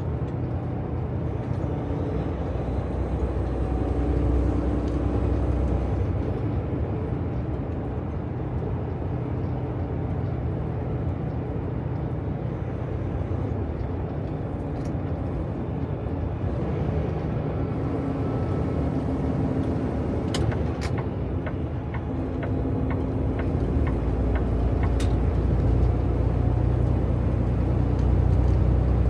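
Cab interior of a semi-truck cruising on the highway: steady engine drone and road noise. A little past the middle comes a short run of quick, light ticks.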